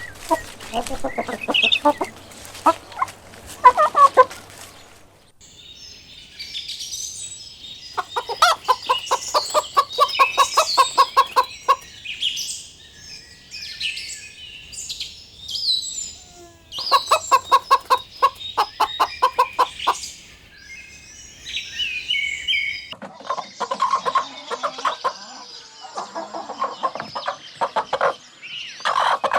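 Chickens clucking in long runs of rapid, evenly spaced clucks, with high-pitched chirping between the runs.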